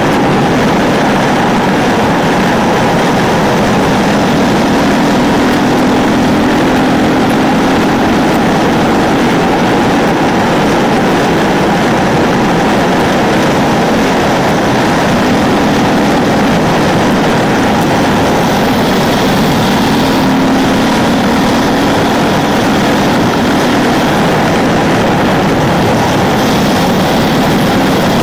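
Ducati 999's four-stroke V-twin engine running under way on the road, its note wavering a little, mixed with heavy wind rush.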